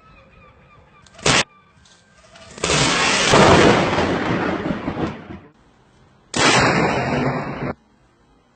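Thunder from lightning strikes: a brief sharp crack just over a second in, then a loud clap about two and a half seconds in that lasts a few seconds and fades. Another loud burst near the end starts and stops abruptly.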